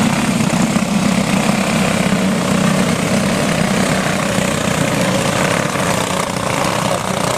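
Pack of racing go-kart engines running at speed, a steady loud drone of several small single-cylinder engines together.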